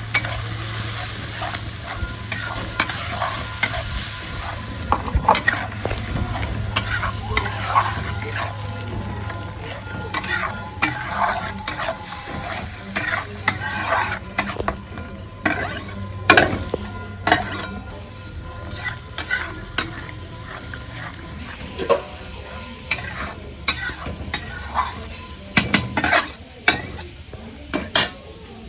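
Ground spice paste with onion and tomato sizzling as it fries in oil, stirred with a spatula that scrapes and knocks against the pan many times. The sizzle eases a little about two-thirds of the way in.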